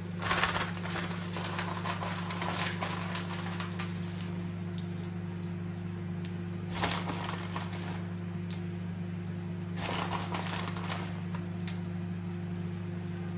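Butter sizzling and crackling in a frying pan under a frying grilled cheese sandwich, with small pops throughout and a steady low hum underneath.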